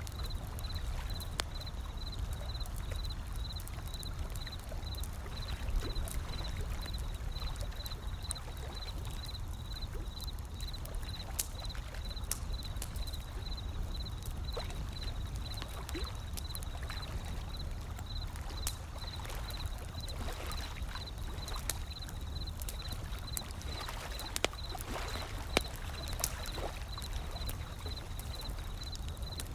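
A wood fire crackling in scattered sharp pops over a steady low wash of ocean waves.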